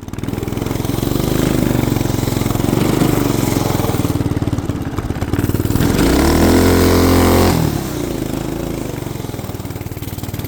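212 cc single-cylinder small engine running under throttle, its pitch rising and falling as the revs change, then held high for about a second and a half past the middle before easing back.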